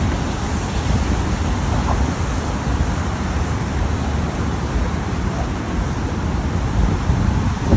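Steady road traffic noise mixed with wind buffeting the microphone, a constant low rumble.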